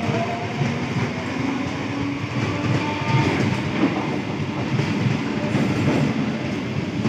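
Eastern Railway EMU local train running past along the platform: a steady rumble of the coaches with wheels clattering irregularly over the track. A faint steady whine fades out about three seconds in.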